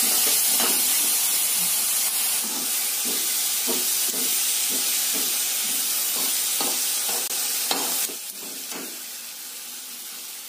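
Chopped onions and green chillies frying in oil in a kadai, sizzling steadily while a metal spatula stirs them with repeated scrapes against the pan. The sizzle drops away about eight seconds in.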